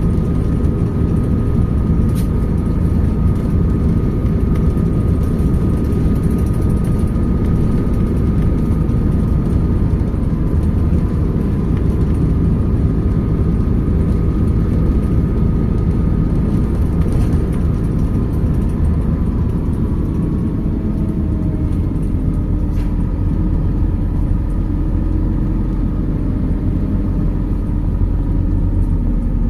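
MAZ 206 city bus heard from inside, under way: a steady engine and road rumble with a faint high whine over it. About two-thirds of the way through, the rumble settles into a deeper, steadier hum.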